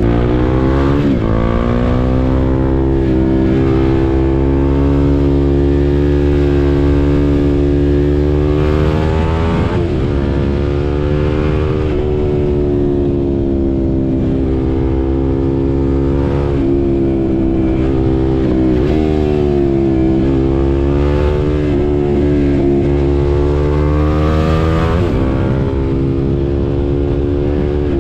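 KTM RC 390's single-cylinder engine under way, its pitch climbing and falling again and again as it accelerates, shifts and slows, with abrupt dips in pitch at the shifts. A steady rush of wind noise runs underneath.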